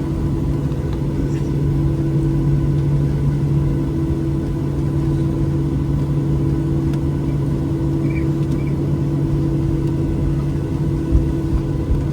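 Inside the cabin of a Boeing 737-800 taxiing after landing: its CFM56-7B jet engines run at idle as a steady hum with several held tones over a low rumble. There is a short bump near the end.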